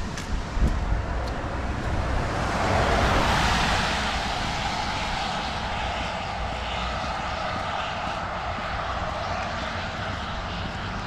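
Road traffic on a rain-wet street: a vehicle passes with tyre hiss that swells about two to four seconds in, then a steady hiss of traffic carries on.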